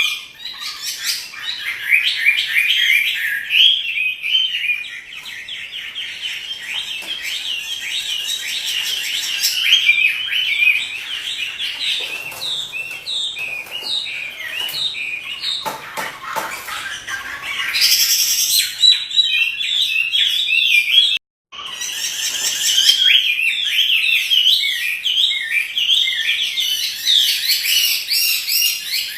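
Chinese hwamei in full song, a long, unbroken stream of rapid, varied whistled phrases. It cuts out for an instant about two-thirds of the way through.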